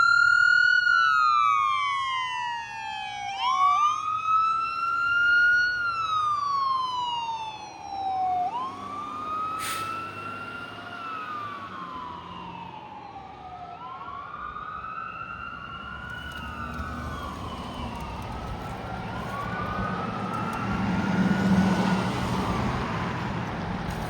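Emergency sirens in wail mode on a responding fire engine and ambulance, each rising and falling about every four seconds. A second wail joins slightly out of step from about nine seconds in, and both grow fainter as the vehicles move off, over traffic rumble.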